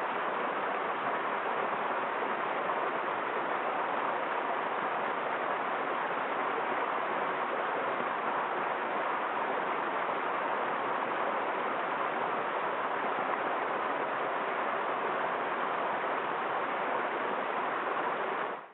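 Waterfall: the steady rush of falling water, unbroken, fading out at the very end.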